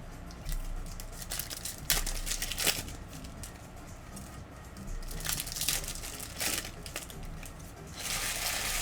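Plastic trading-card packaging being handled: crinkling and tearing with scattered sharp crackles, busier near the end.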